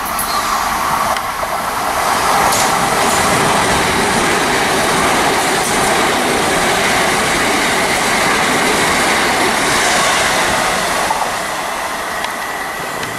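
Southern Class 377 Electrostar electric multiple unit passing along the platform: a rushing rumble of wheels on the rails that builds over the first couple of seconds, holds loud with a few sharp clicks, then eases off near the end as the train moves away.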